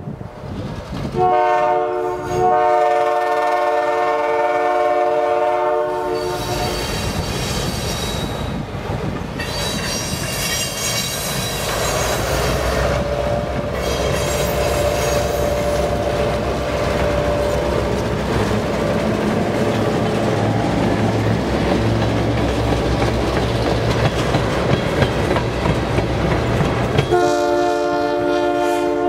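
A diesel freight locomotive, CCGX 4009, sounds a multi-note horn chord for about five seconds. Its engine and rolling wheels rumble past with two tank cars in tow. A second horn blast starts near the end.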